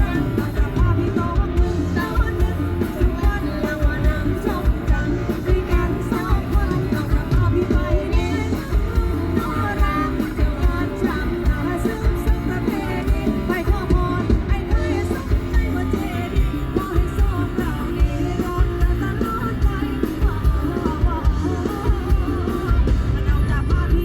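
Upbeat Thai song: singing over a band with a steady, driving beat.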